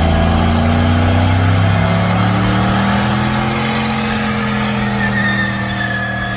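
A vehicle engine held at high revs. Its pitch climbs gently and then holds steady, with a loud hiss of noise over it, easing off a little near the end.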